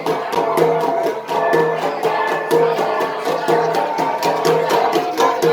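Ensemble of flat bronze gangsa gongs struck in a fast, even interlocking beat, with ringing pitched notes recurring throughout: Igorot gong music accompanying the pattong dance.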